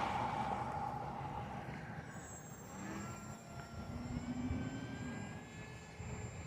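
Distant, faint whine of an RC plane's electric motor and propeller (HobbyZone AeroScout S2), its pitch sliding down about three seconds in and then holding steady, after a rushing noise fades over the first second.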